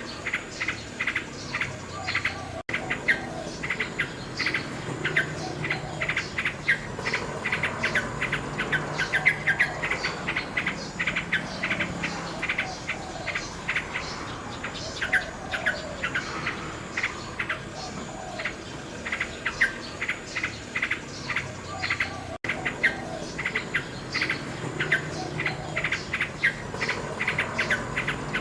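Nightingale singing: dense runs of rapid, repeated chirping notes. The sound cuts out for an instant twice.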